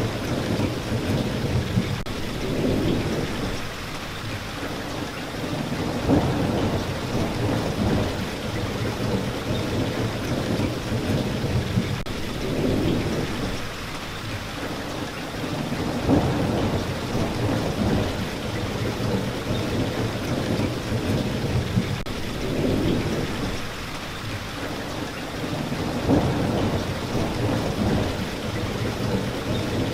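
Steady rain falling, with low rumbles that swell and fade every few seconds.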